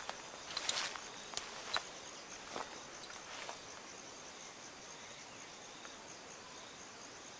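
An insect trilling steadily in a high, pulsing note. Footsteps crunch and rustle through dry vegetation in the first few seconds, then stop.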